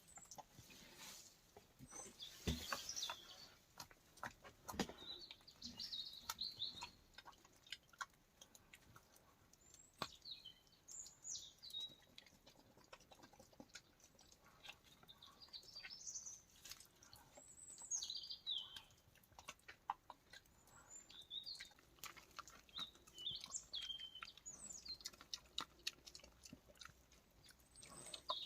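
Wild boar chewing its food, heard as faint scattered clicks throughout, while small birds chirp short falling notes every few seconds.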